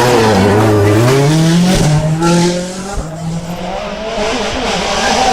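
Rally car engine accelerating hard, its pitch rising through the first two seconds, then easing off and going quieter for a moment about halfway through before picking up again.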